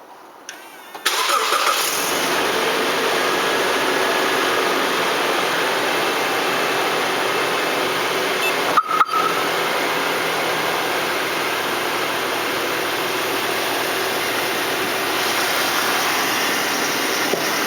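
Toyota Land Cruiser Prado engine started by its Viper 5906 remote starter: it cranks and catches about a second in, then idles steadily. There is a brief break with a couple of clicks about nine seconds in.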